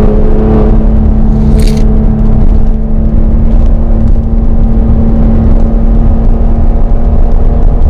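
Maserati Levante GranSport SQ4's V6 biturbo engine running at a steady speed while driving, over a heavy low road rumble, with a short hiss just under two seconds in.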